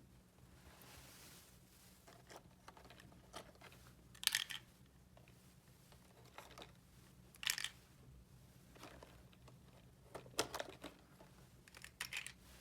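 Quiet handling noise: four brief rustles or scrapes of small objects being moved, with fainter rustling between them, over a low steady hum.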